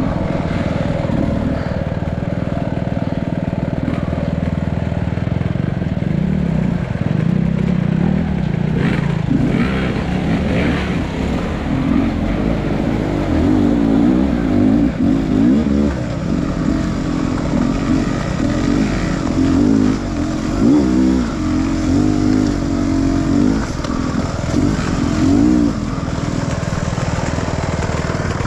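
Off-road dirt bike engine running and revving up and down over rough terrain, its pitch rising and falling every second or two.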